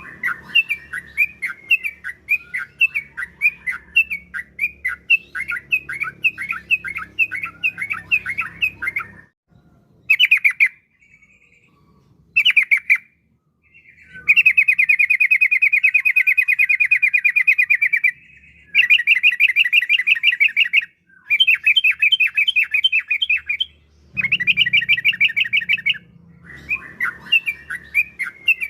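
Yellow-vented bulbul (trucukan) singing: quick runs of bubbling chirps, then a long rapid trill about midway, broken by short pauses and followed by more fast bursts.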